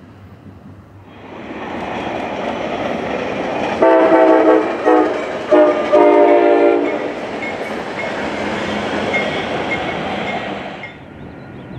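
Coaster commuter train rolling past over a trestle, its locomotive horn sounding three blasts, long, short, long, with the wheels clattering on the rails throughout.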